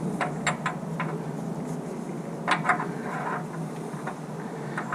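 Metal engine parts and tools being handled: a few light clicks and knocks near the start, a louder cluster of clinks about halfway through and one more near the end, over a steady low hum.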